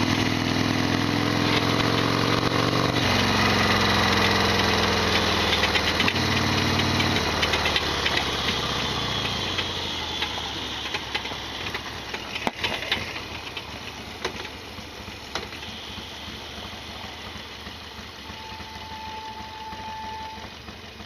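Harley-Davidson XL1200R Sportster's air-cooled V-twin engine running, its pitch stepping up and down for the first several seconds, then the engine note fades away and leaves a lower, even noise. The bike is one the owner calls rattly and noisy ('gatapishi'), with a loud abnormal noise.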